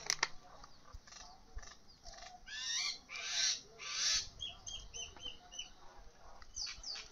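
Birds calling: three loud calls in quick succession around the middle, followed by a quick run of about five short, high chirps.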